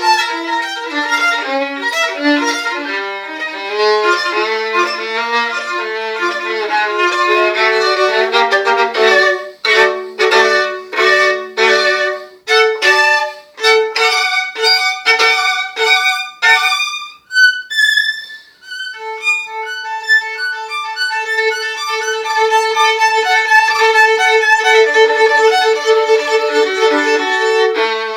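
A violin playing: a quick run of notes, then short separated notes with small gaps, a rising glide about two-thirds of the way through, and a long held note to the end.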